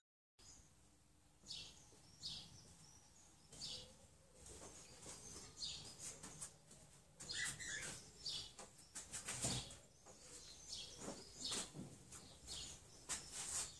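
Small birds chirping: short, high calls repeated every second or so, some closely bunched.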